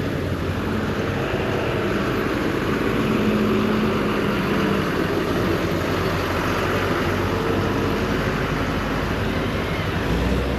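Motorcycle running at a steady road speed, engine hum under a steady rush of wind on the microphone.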